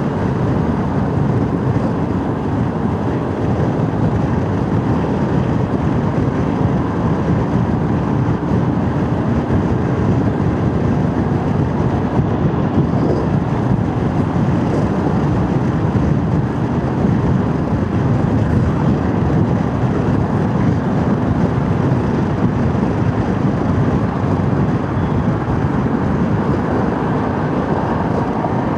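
Motorcycle riding at a steady speed: engine running under rushing wind on the microphone.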